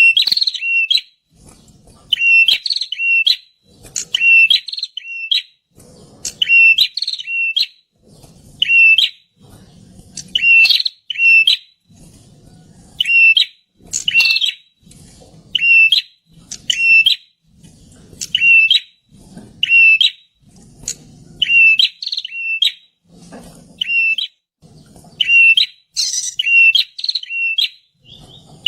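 Prinia (perenjak) song: short, loud, sharp chirping phrases repeated about once a second, over and over.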